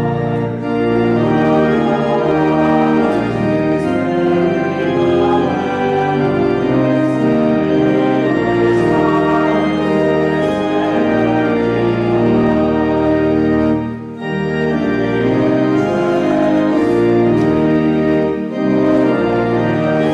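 Church organ playing a slow piece in sustained chords, with short breaks between phrases.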